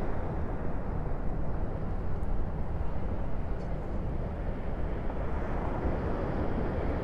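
Steady low rumbling noise of wind buffeting the microphone outdoors, rising and falling slightly in strength.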